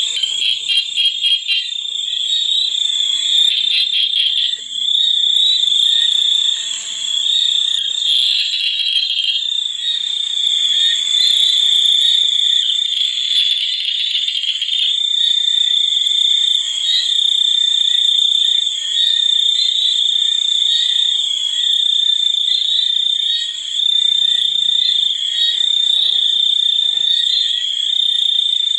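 Continuous chorus of calling frogs and insects: a steady high-pitched trill, with rapid pulsed calls over it in the first few seconds.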